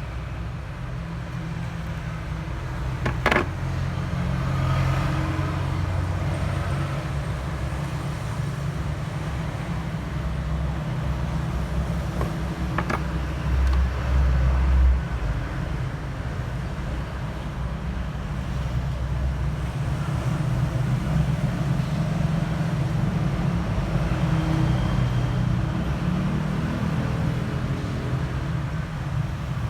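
Steady low rumble with two sharp clicks, one a few seconds in and one just before halfway, and a brief louder swell of the rumble around halfway.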